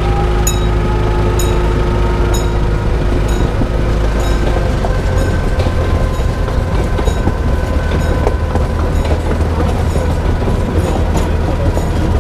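Amusement-park train car rolling along its track: a steady low rumble with the wheels clicking over rail joints about once a second, and a faint thin whine.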